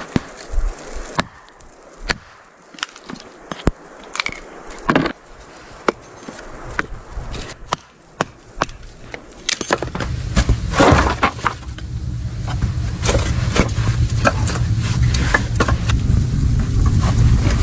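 Firewood being split with an axe: scattered sharp knocks and wood cracking. About ten seconds in, a steady low rumble sets in, with many small crackles over it.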